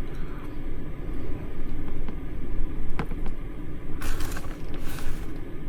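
A steady low rumble runs throughout, with a faint click about three seconds in. About four seconds in come two short bursts of crinkly rustling, as cheese is added to the quesadilla.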